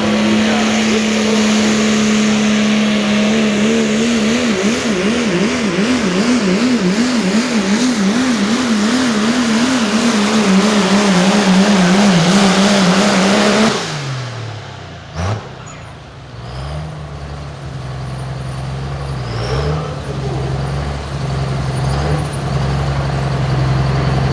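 Limited Pro Diesel pulling truck's diesel engine running hard under load, its note wavering up and down about twice a second. A little over halfway through the throttle comes off and the engine falls to a low, steady idle, with a single sharp crack just after the drop.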